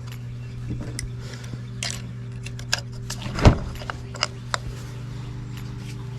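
Scattered clicks and clinks of hand tools and small parts as fuel hoses are fitted to a two-stroke tiller's carburetor, with the loudest knock about three and a half seconds in, over a steady low hum.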